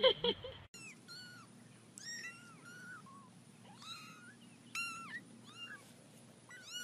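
A cat mewing: a string of short, high-pitched mews, one or two a second. It follows a brief louder sound that cuts off sharply under a second in.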